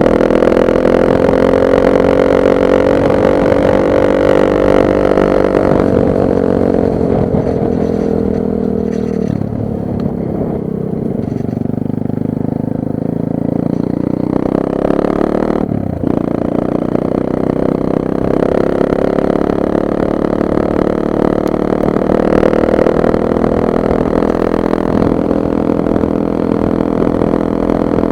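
Nitro Sky 125cc pit bike's single-cylinder four-stroke engine running under way, its note holding steady, easing off about a third of the way in and dropping sharply for a moment just past halfway before picking up again.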